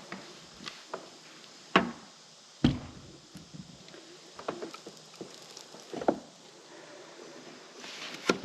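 Scattered knocks, clicks and clatter of hands and tools on an RV rooftop air conditioner as its cover is unscrewed and opened up, with a few sharper knocks about two, three and six seconds in.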